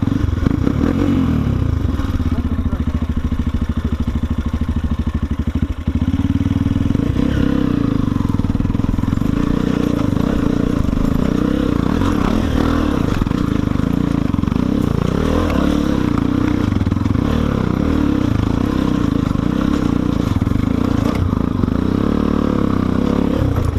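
Enduro dirt bike engine running, getting louder about six seconds in and then rising and falling with the throttle as the bike is ridden.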